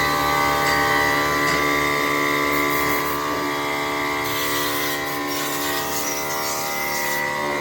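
A machine's motor running at a steady speed, giving an even, unchanging whine made of many tones.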